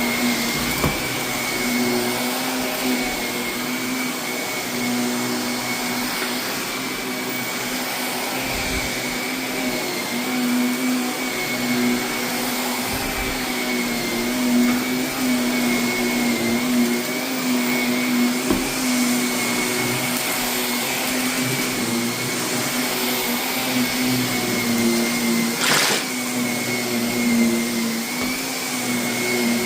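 Vacuum cleaner running steadily over heavily soiled carpet, with a steady whine as it picks up loose renovation debris and dust; a sharp click near the end.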